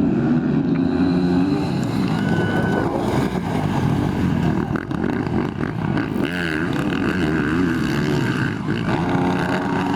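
Motocross dirt-bike engines running and revving, their pitch rising and falling as the throttle changes, with more than one engine heard at once.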